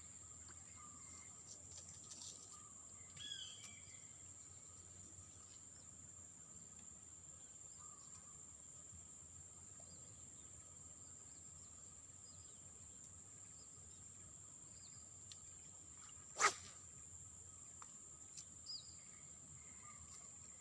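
Faint outdoor riverside ambience with a steady high-pitched drone. Scattered short bird chirps sound now and then, with a few falling chirps about three seconds in. One sharp, sudden louder sound comes about sixteen seconds in.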